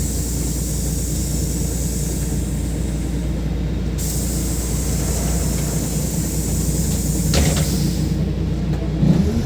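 LiAZ 5292.67 gas-powered city bus standing with its engine running steadily under a constant hiss, with a brief clunk about seven seconds in. Near the end the engine note starts to rise as the bus begins to pull away.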